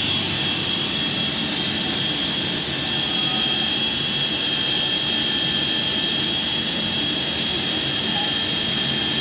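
A shop machine's electric motor running at steady speed: a loud even rush of air or grinding with a high steady whine on top.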